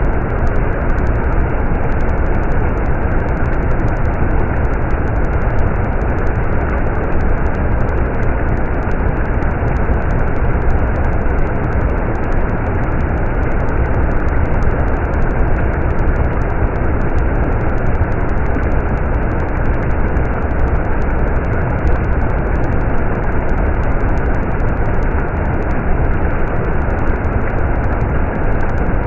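Stream water running steadily, a dense, unbroken rushing with most of its weight in the low end.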